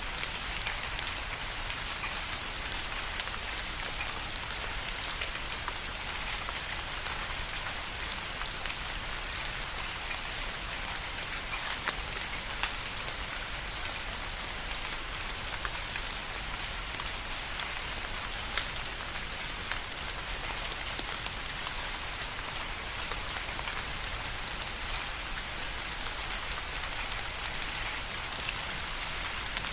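Steady rain falling, an even hiss with the ticks of individual drops striking a surface scattered through it.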